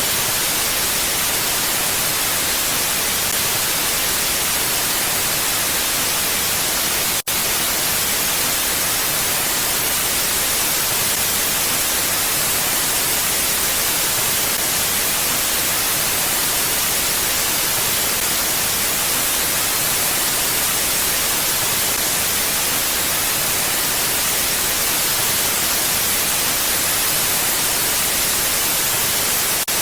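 Steady, even wind noise like a constant hiss, with no gusts or other sounds. It drops out for an instant about seven seconds in.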